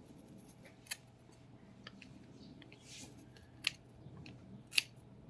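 Scissors snipping tangled hair off a vacuum cleaner's brush roll: a few separate sharp snips, the clearest about one second, three and a half seconds and nearly five seconds in, with faint handling noise between.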